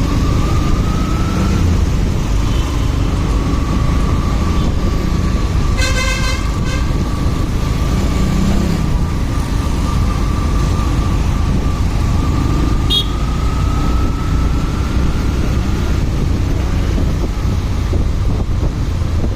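Steady wind rush and road and engine noise from a motorcycle riding in traffic, with a vehicle horn sounding briefly about six seconds in.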